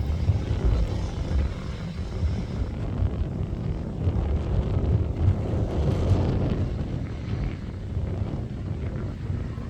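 Competition safari off-road car driving, its engine running with a heavy low rumble and wind buffeting the microphone; the sound swells about six seconds in.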